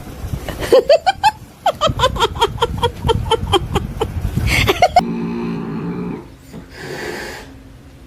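A cat making a quick run of short, repeated pitched calls, about four a second. After an abrupt cut about five seconds in, a lower, steadier animal sound follows.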